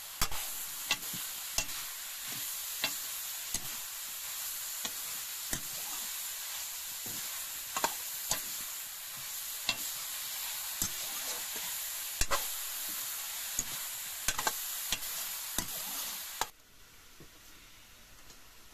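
Meat and mushrooms sizzling in a hot metal wok while a metal ladle stirs them, clicking and scraping against the pan every second or so. The sizzling cuts off suddenly near the end, leaving only a faint hiss.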